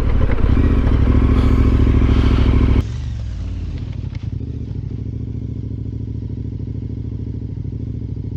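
KTM 1290 motorcycle's V-twin engine running with the bike under way on a dirt road, mixed with wind and gravel noise. About three seconds in, the sound drops abruptly to the engine idling with an even, lumpy beat.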